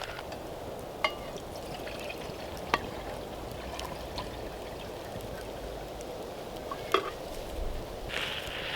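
Cooking over a campfire: a steady hiss with a few sharp pops. A louder rush of hiss comes in near the end.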